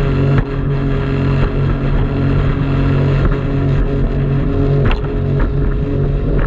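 Jet ski engine running steadily at speed, with a few sharp knocks about half a second in and again near the end.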